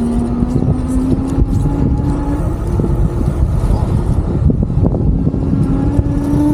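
Electric bike motor whining as it accelerates, its pitch slowly climbing, fading about two seconds in and coming back near the end. Heavy wind rush buffets the microphone at riding speed.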